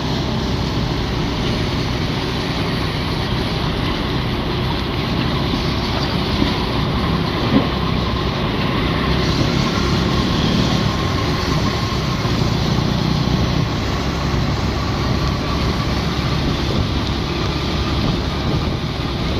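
Motorcycle engine running steadily while riding, with road noise around it. There is a single short knock about seven and a half seconds in.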